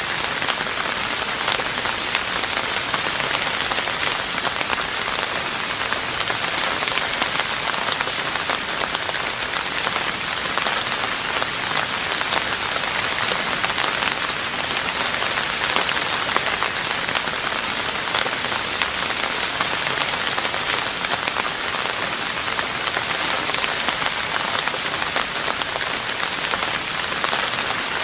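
Steady rain falling on a roof: an even hiss dense with countless small drop impacts, unchanging throughout.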